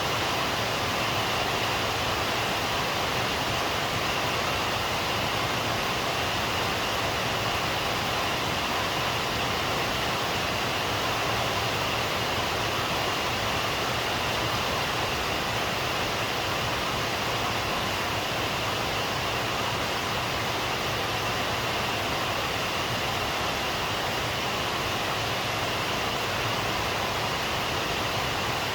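Steady heavy rainfall: an even, unbroken hiss with no thunder.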